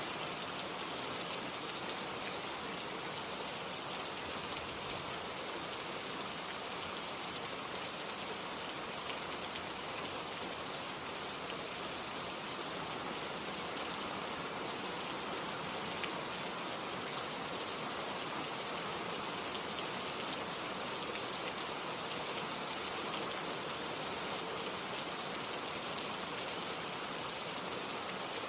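Gentle rain falling in a steady shower, with an occasional louder single drop.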